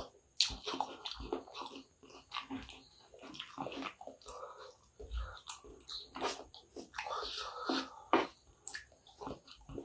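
Wet chewing and lip-smacking of a mouthful of kottu, close to the microphone, with small clicks and scrapes from a spoon scooping more from the pile.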